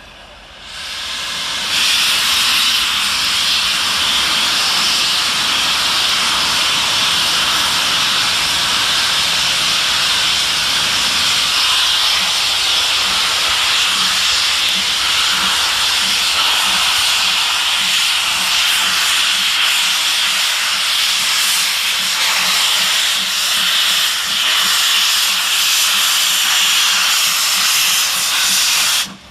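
LMS Jubilee class 4-6-0 steam locomotive letting off steam: a loud, steady hiss that swells up over the first couple of seconds and cuts off suddenly near the end.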